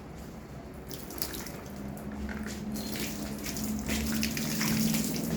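Water poured from a bottle splashing onto a running 12-volt DC ceiling fan, growing louder about two seconds in, with a steady low hum coming in at the same time.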